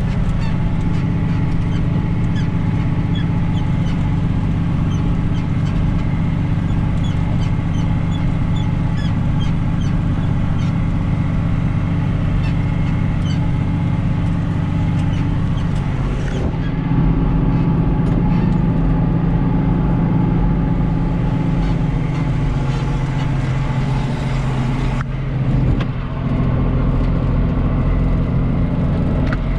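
John Deere 2940 tractor's diesel engine running steadily while pulling a rotary hay rake. The tone shifts about halfway through and dips briefly near the end before carrying on.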